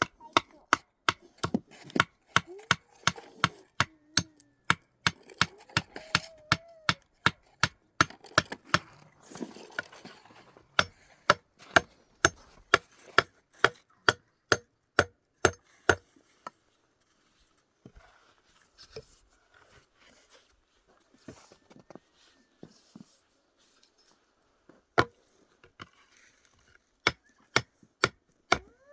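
Hammer blows on wood, about two a second, stopping about halfway and starting again near the end, while a wooden snow shovel is being made by hand.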